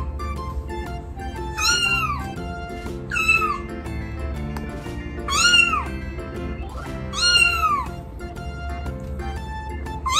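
Recorded kitten meows played from a laptop: four high meows, each rising then falling in pitch, a second or two apart, over steady background music.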